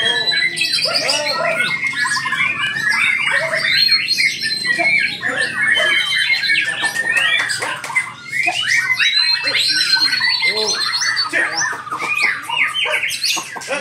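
Many white-rumped shamas singing at once in a songbird contest: a dense, continuous tangle of overlapping loud whistles, trills and quick sweeping notes.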